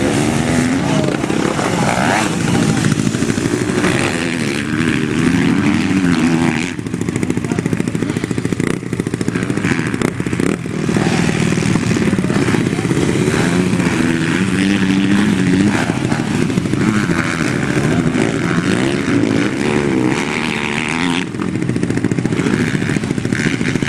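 Motocross bike engines revving up and down repeatedly as they are ridden, the pitch rising and falling with the throttle, with short dips in level about seven and twenty-one seconds in.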